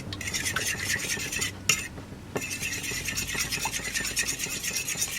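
Raw eggs being whisked in a bowl: fast, even strokes of the utensil against the bowl, with a short pause about a second and a half in before the beating resumes.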